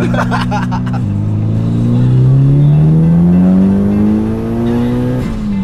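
Mitsubishi Lancer Evo's turbocharged four-cylinder engine heard from inside the cabin. It holds steady revs, drops sharply about a second in, then climbs steadily in pitch and loudness for about four seconds as the car accelerates hard, and drops sharply again near the end.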